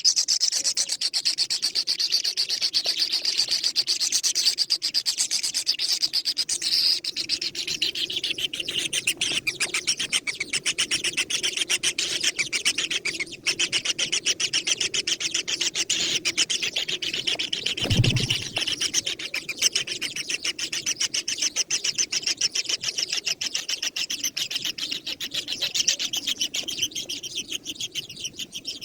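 Birds calling: a fast, unbroken high-pitched chatter, with a lower cooing-like sound underneath for much of it. There is a single low thump about eighteen seconds in.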